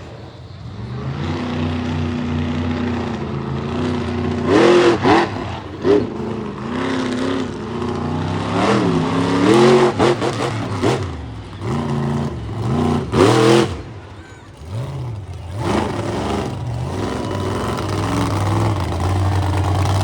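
Monster truck engine running, revved hard again and again with pitch climbing and falling, and holding a steady drone in between.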